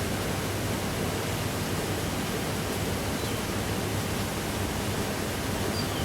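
Steady, even hiss of background noise with a faint low hum under it, unchanging throughout.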